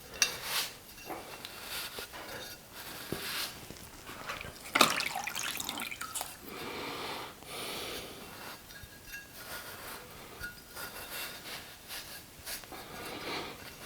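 Scattered small knocks, clinks and wet rubbing sounds of hand work with ceramic glaze jars and cups, with one louder knock about five seconds in.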